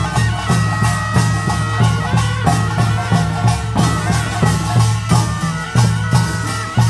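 Korean nongak farmers' band playing. Drums beat a steady rhythm under bright clashing small gongs, with a few held high tones from a wind instrument above them.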